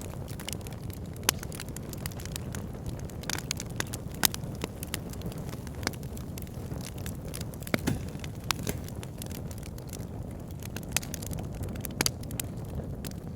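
Wood fire burning in a log burner: a steady low rumble of flames with irregular crackles and sharp pops from the burning logs.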